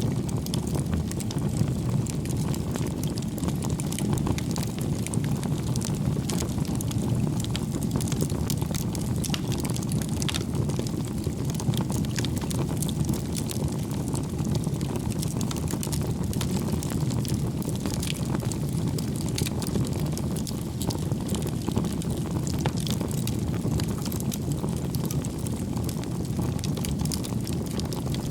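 Wood fire burning, with a steady low rush of flames and many small, irregular crackles and pops throughout.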